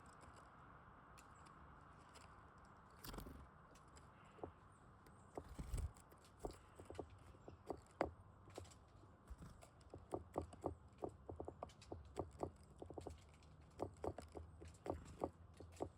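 Faint, irregular sharp taps and cracks of birds' beaks pecking at seed on a feeder, sparse at first and coming in quick clusters over the second half, over a steady low hiss.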